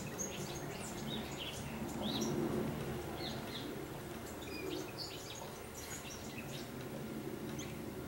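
Small birds chirping: many short, high calls scattered throughout, over a steady low rumble that swells a couple of seconds in.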